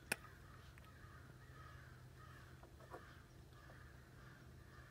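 Near silence with faint, distant cawing birds calling again and again over a low steady hum. A single sharp click sounds just after the start.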